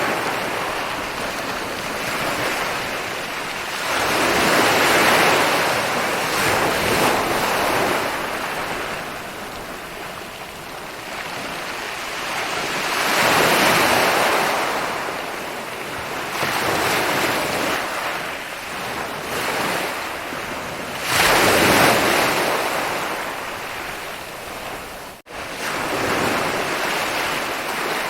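Ocean waves breaking and rolling on a beach, each surge of surf swelling up and washing back every several seconds, one wave arriving with a sudden rush about three quarters of the way through. A split-second gap in the sound follows shortly after.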